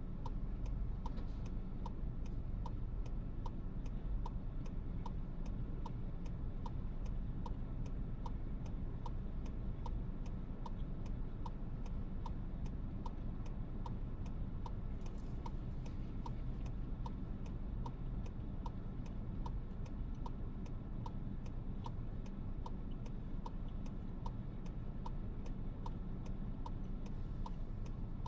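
A steady, even ticking inside a moving car's cabin, about one click every three quarters of a second, over the low rumble of road and engine.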